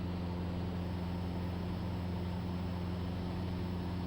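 Steady drone of a Cessna 172 Skyhawk's engine and propeller in flight, heard inside the cockpit as an even, low hum.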